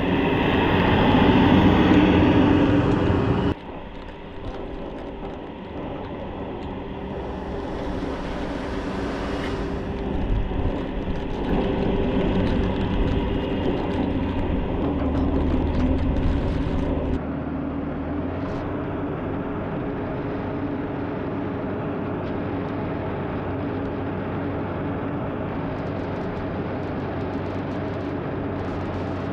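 TYM 574 compact tractor's diesel engine running steadily under load while pushing snow. The sound drops abruptly a few seconds in and changes again about halfway.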